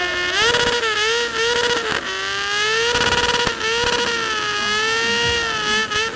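A small engine held at high revs, its pitch wavering up and down, with several short bursts of rushing noise over it.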